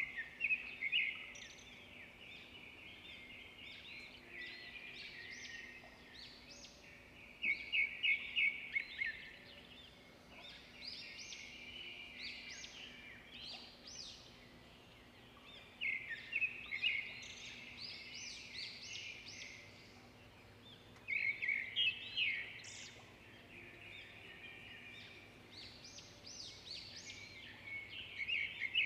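Birds singing in bursts of quick, high chirping phrases that come every few seconds, over a quiet outdoor background.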